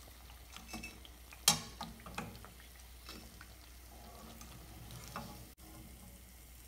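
Chakli deep-frying in hot oil with a faint, steady sizzle, while a perforated metal skimmer clicks and scrapes against the pan as the pieces are turned and lifted. One sharp clack about a second and a half in is the loudest sound, followed by a few lighter taps.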